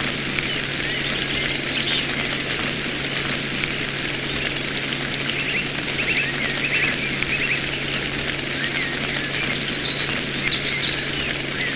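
Birds chirping in short scattered calls over a steady hiss, with a faint low hum underneath.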